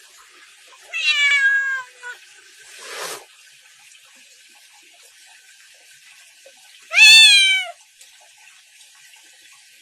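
Domestic cat meowing twice: a drawn-out meow about a second in and a louder one around seven seconds in, each sliding down in pitch. A short rushing noise comes between them, near three seconds.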